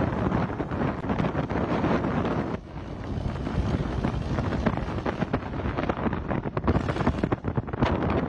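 Strong wind buffeting the microphone, a gusty rumbling roar with an abrupt dip about two and a half seconds in.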